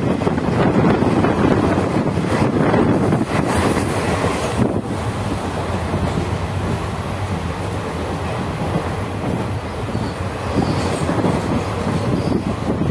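Indian Railways passenger train running at speed, heard from on board: steady running noise of the wheels on the track. The sound drops a little about five seconds in.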